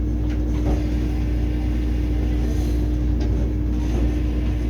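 Running noise inside a Vande Bharat Express electric trainset coach: a steady deep rumble under a constant hum, with a few faint clicks.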